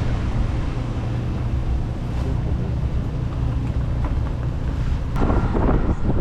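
Steady low rumble of a car on the move, with wind noise over it; irregular short knocks and rattles come in near the end.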